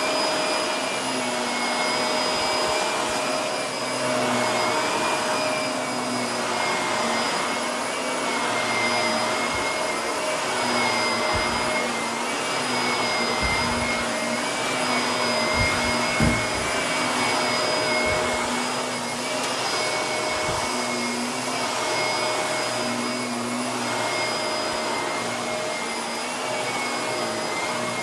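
Vacuum cleaner running steadily with a motor whine, the sound swelling and fading about every two seconds as it is pushed back and forth. A few low thumps come in the middle, with one sharper knock just past halfway.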